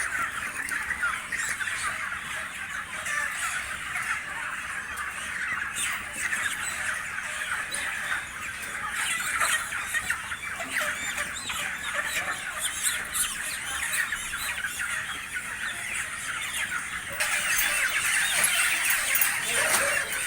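Many broiler chickens in a dense, continuous chorus of high-pitched squeals and squawks, the distress calls of birds being handled, tied by the legs and thrown. The chorus grows louder near the end.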